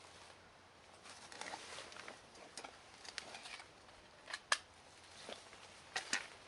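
Irregular sharp clicks and light rustling, typical of handling gear at close range, with the two loudest clicks about four and a half seconds and six seconds in.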